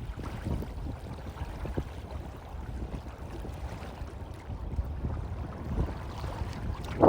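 Low, steady wind rumble on the microphone with faint lapping of calm harbour water. A stronger gust swells up at the very end.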